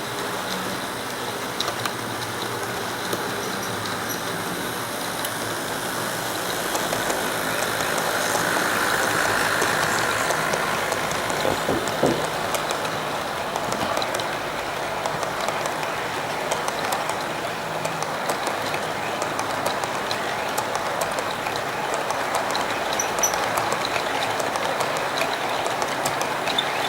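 Model train running around the layout's track: a steady motor whir with wheels clicking over the rail joints. It grows louder as the train passes close, about a third of the way in, then eases off.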